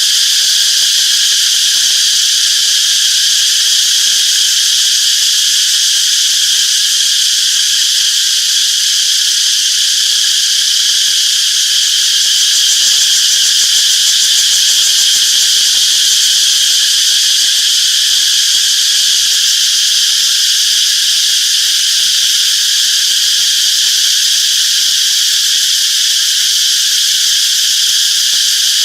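A chorus of cicadas shrilling in a steady, unbroken high-pitched drone.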